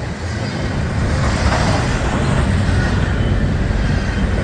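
Norfolk Southern intermodal freight train rolling past close by: a steady rumble of steel wheels on the rails.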